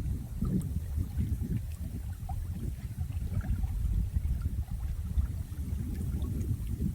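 Water sloshing and gurgling in a low, uneven rumble that swells and eases, with faint small splashes over it.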